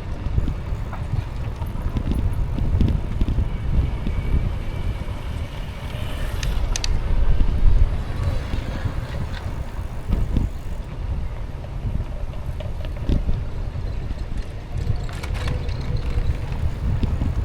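Wind buffeting the microphone of a moving e-bike: a steady low rumble with road noise, and a few sharp clicks about seven seconds in.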